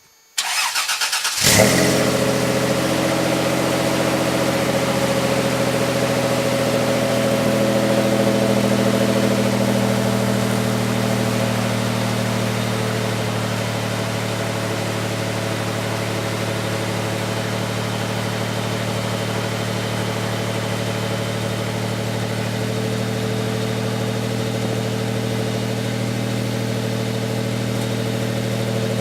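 Toyota 3.4-litre 5VZ-FE V6 in a 1995 4Runner cranked by the starter, catching about a second and a half in with a brief rev, then idling steadily. The deep, throaty idle comes out through a Walker resonator, a Flowmaster 40 muffler and a 4-inch pipe.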